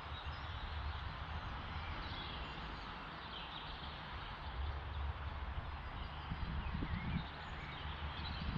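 Wind rumbling on the microphone, with a few faint bird chirps in the background.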